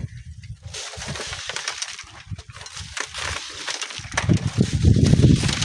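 Strong wind buffeting the microphone, rising to its strongest about four seconds in, over irregular gritty crackling of sand and stones.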